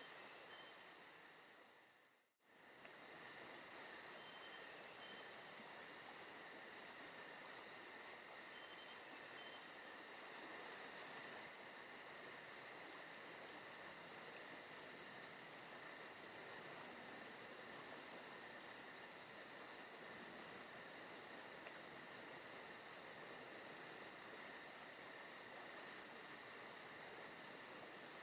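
Faint forest ambience of crickets and insects chirping steadily, with a fast, even high pulsing over steady trills. It fades out and back in briefly about two seconds in.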